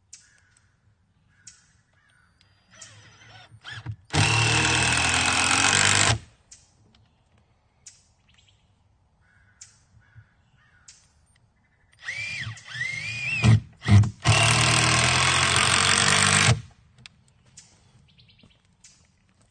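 A handheld power tool runs twice in steady bursts of about two seconds each, some ten seconds apart, with a few short uneven starts just before the second.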